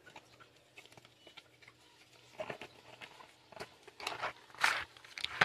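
The packaging of a Lorcana trading-card starter deck being opened and handled: scattered crinkles, rustles and taps, sparse at first and busier in the last three seconds.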